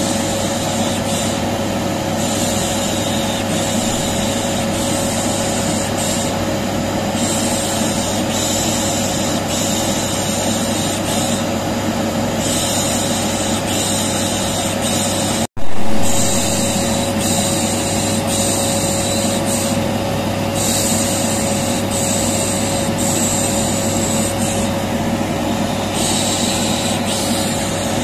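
Vacuum cleaner motor running steadily with a constant whine, with a 'shh' shushing hiss layered over it that swells in and out every few seconds. About halfway through the sound cuts out for an instant and comes back with a loud jump, like a loop join.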